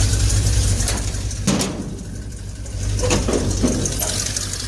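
Pickup truck engine idling steadily shortly after a cold start, with a brief knock about a second and a half in and a few short handling noises near the middle.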